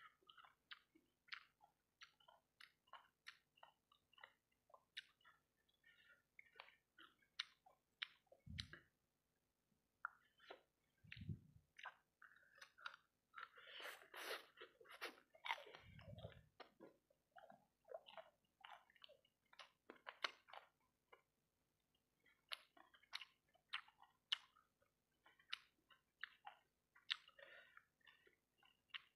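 Close-up chewing of sauce-coated fried rice balls: a steady stream of quiet, irregular wet clicks and smacks, with a few brief low thuds.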